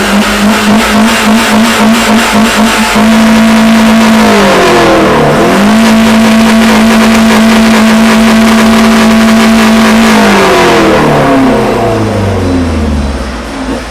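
Car engine revved hard and held at high revs, bouncing rapidly at first, then held steady, dipping once and climbing back before the revs fall away near the end.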